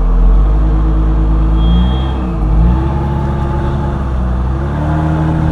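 Off-road 4x4 engine running loudly under load, its pitch dipping and rising again around the middle as the driver works the throttle to move a truck whose tire is pinned against a ledge.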